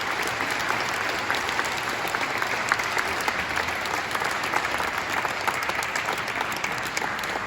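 Audience applauding: steady, dense hand-clapping from a concert hall crowd after a performance, beginning to fade near the end.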